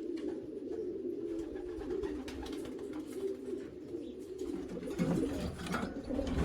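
Racing pigeons cooing continuously, several birds overlapping, with a few short clicks and knocks near the end.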